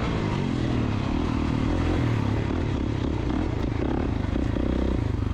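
KTM two-stroke dirt bike engine running on a muddy motocross track. Its note holds at fairly steady revs with small rises and dips in pitch.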